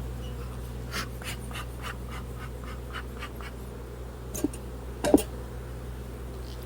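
A quick run of short scratchy scraping strokes as a bee smoker is scraped clean because it won't stay lit. Two brief squeaky blips follow about four and five seconds in, the second the loudest, over a steady low hum.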